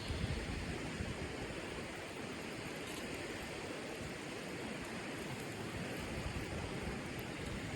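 Steady rushing noise with an uneven low rumble underneath and a faint tick or two.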